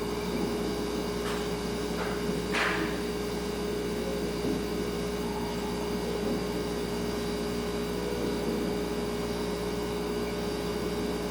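Refrigerator humming steadily, with one clear steady tone over a low drone. A few faint short ticks come between about one and three seconds in, the last one a little sharper.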